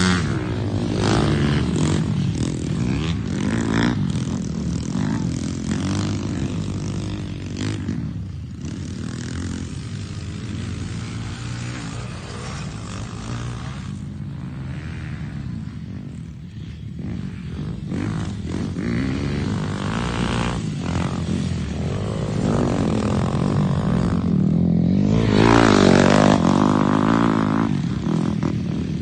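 Dirt bike engines running and revving on a motocross track, the engine note rising and falling as bikes pass. The sound dips about halfway through and grows loudest near the end.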